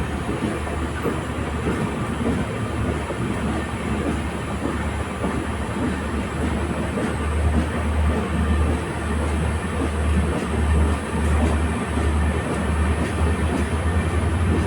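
Express train's LHB coaches running along the track: a steady rumble and rushing noise with the clickety-clack of wheels over the rails, the low rumble pulsing more strongly from about halfway through.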